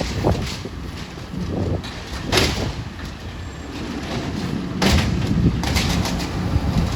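Garbage truck running with a steady low engine rumble, broken by short sharp hissing or clanking noises about two and a half, five and five and a half seconds in.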